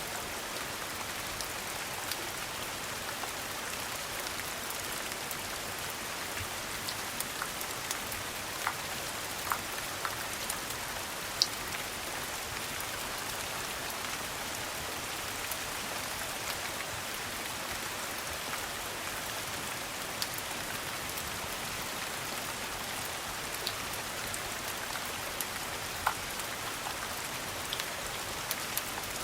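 Steady rain falling, an even patter with scattered short sharp clicks and drops, one louder click about eleven seconds in.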